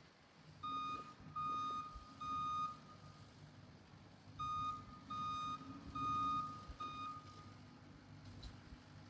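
Backup alarm beeping on the machine running the power rake: three beeps, a short pause, then four more, over the steady hum of its engine, a sign the machine is reversing.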